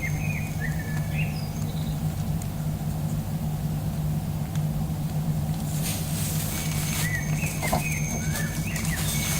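Birds chirping in short calls, a cluster in the first second or so and another in the last few seconds, over a steady low hum.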